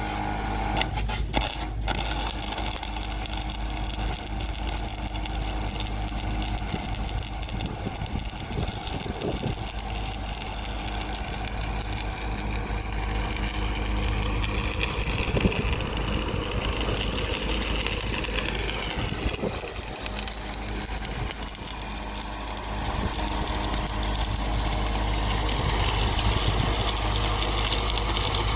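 Diesel engine of heavy piling machinery running steadily, its pitch rising and falling once about halfway through, with a few scattered knocks.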